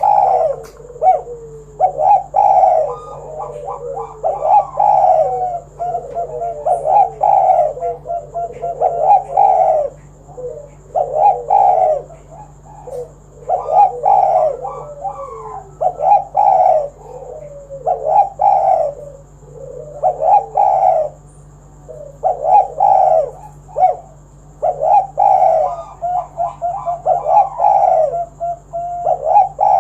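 Spotted dove cooing loudly, phrase after phrase, about one phrase every two seconds.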